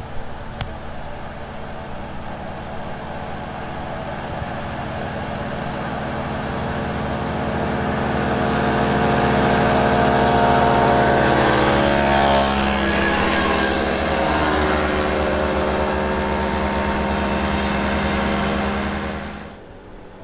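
Small two-stroke moped engines of a group of vintage mopeds riding past: the engine note grows louder as they approach, drops in pitch as they go by, then cuts off suddenly near the end.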